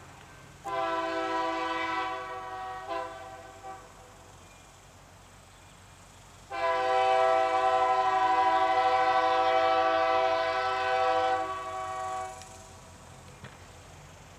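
Freight locomotive air horn sounding a chord, blown twice: a blast of about two seconds, then a longer blast of about six seconds.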